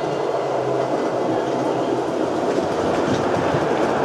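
A train's wheels running on the rails: a steady rolling noise that grows slightly louder, as of a train coming nearer.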